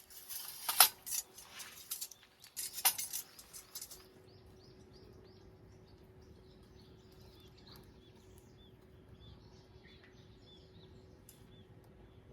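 Sharp clinks and clatter of handled objects for the first four seconds. Then small birds chirping over and over, quietly.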